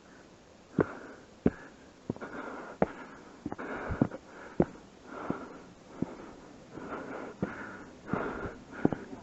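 Footsteps, about one every two-thirds of a second, with a person breathing hard while walking uphill.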